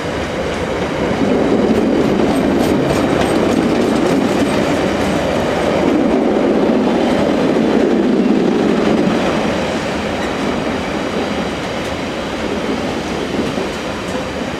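Wheels of a freight train's KFA container flat wagons, carrying waste containers, rolling past close by in a steady run of rail noise. The noise eases off a little over the last few seconds.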